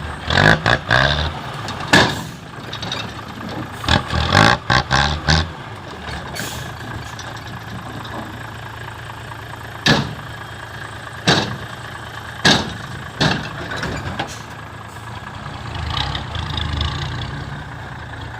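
Dump truck's diesel engine idling steadily, with a string of loud, sharp knocks and clanks, several in quick succession in the first few seconds and a few more, spaced about a second apart, in the middle.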